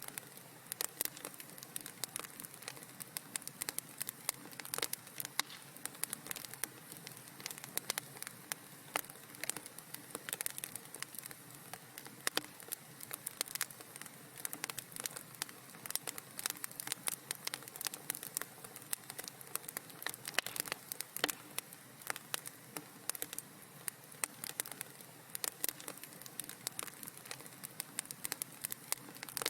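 Wood fire in a fireplace crackling, with many sharp irregular pops and snaps over a faint steady hiss.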